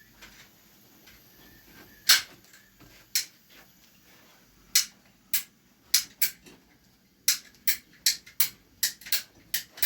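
A series of sharp taps or knocks. There are a few scattered ones at first, the loudest about two seconds in, then a quicker run of about three a second in the last few seconds.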